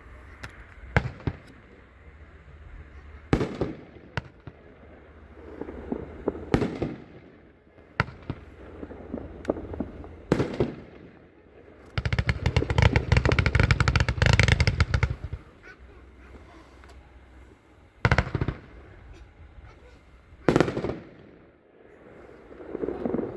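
86-shot consumer firework cake firing: single shots going off a second or two apart, then about twelve seconds in a dense, rapid volley of crackling shots lasting about three seconds, followed by a couple more single shots.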